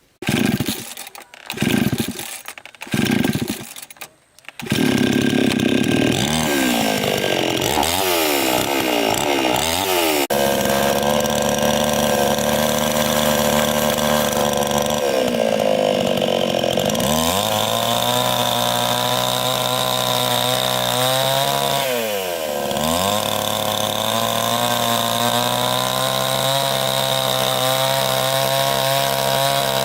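Chainsaw engine: three short bursts at the start, then running continuously at high speed. Its pitch drops and climbs back twice as the throttle is eased and reopened.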